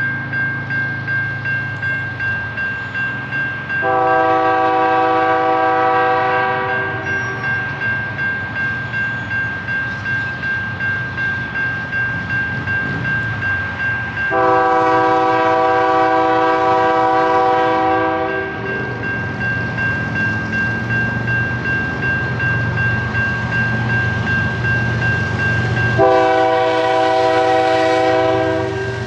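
A locomotive's multi-chime air horn sounds three long blasts about ten seconds apart, over the rhythmic clatter of a train rolling past. A steady high-pitched tone runs underneath throughout.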